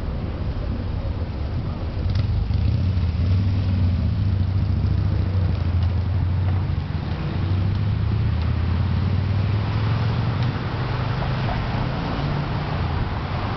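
Steady low rumble of motor traffic on the parkway beside the bike path, rising about two seconds in as louder vehicles pass.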